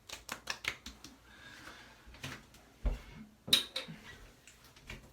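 A run of sharp clicks and knocks from hard items being handled, with a dull thump about three seconds in and the loudest click just after it.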